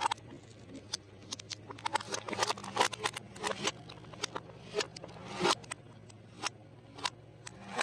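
Crunchy fried food crackling and snapping in quick irregular clicks as a car tire crushes it, over the car's low steady engine hum.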